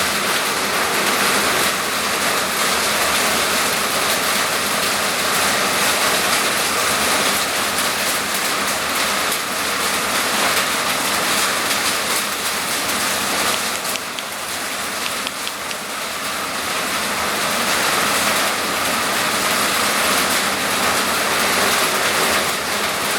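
Steady heavy rain, a dense even hiss of drops falling on surfaces.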